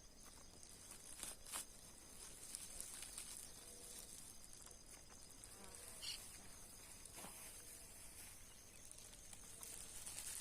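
Faint, steady high-pitched insect chirring, with a few faint short clicks or rustles.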